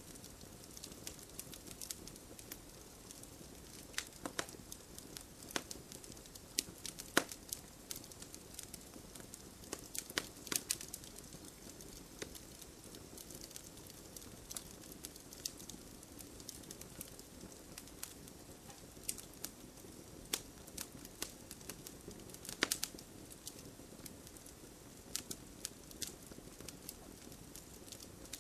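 Wood fire crackling: irregular sharp pops and snaps, some louder ones scattered through, over a soft steady hiss of burning.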